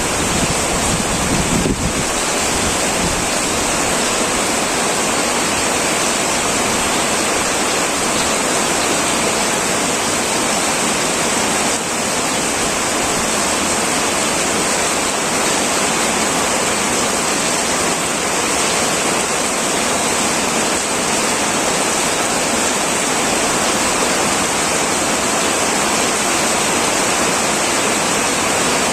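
Heavy rain pouring steadily on a tin roof: a dense, even hiss, with a low rumble in the first couple of seconds.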